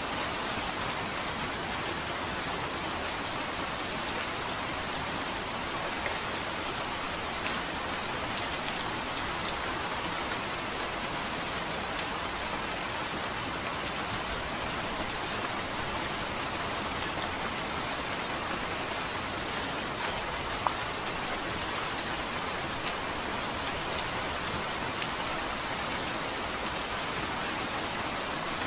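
Steady rain falling, an even hiss with scattered individual drop ticks. No thunder is heard.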